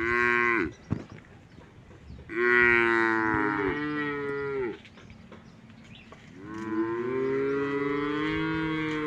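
Cattle mooing three times: a short moo, a longer one about two seconds later, and a long, drawn-out moo starting about six and a half seconds in.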